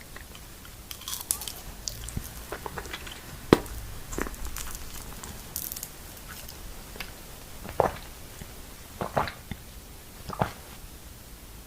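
Close-up eating sounds: crunchy bites and chewing, with a handful of sharp crisp crunches spread through, the loudest about a third of the way in.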